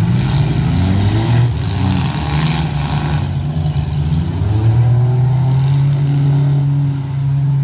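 Unmuffled engines of full-size demolition derby cars revving hard, their pitch rising and falling as the cars push and ram in the arena. From about four seconds in one engine holds a steady high rev.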